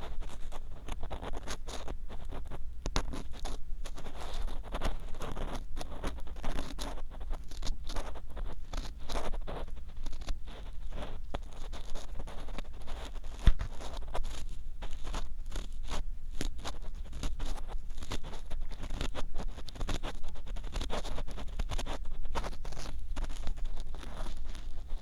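Ear pick scraping and rubbing against the ear of a binaural dummy-head microphone: a dense, irregular run of rough scratchy strokes over a deep rumble. One sharper click comes about halfway through.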